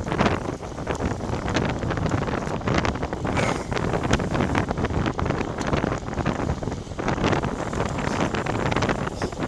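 Wind buffeting a bike-mounted GoPro Session's microphone while cycling at speed in strong wind. It gives a loud, continuous rush broken by irregular gusty thumps.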